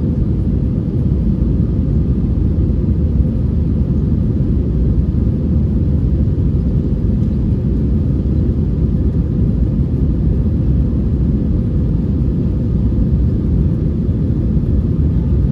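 Airbus A321 airliner's jet engines running: a steady, even low rumble with no change in pitch or level.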